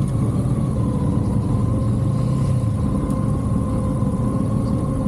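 Motorcycle engine running steadily, a low rumble with a faint whine that eases slightly in pitch in the first second and then holds.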